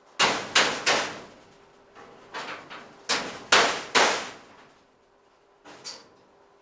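Hammer blows on sheet metal through a piece of wood, straightening it: sharp clanging strikes in three bunches, a quick three, then about five, then two lighter ones near the end.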